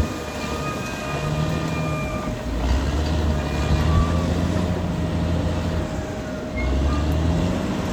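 Caterpillar D6R XL crawler bulldozer working: steady diesel engine drone that swells and eases every second or two under changing load. Its tracks and running gear clatter, with a thin steady whine on top.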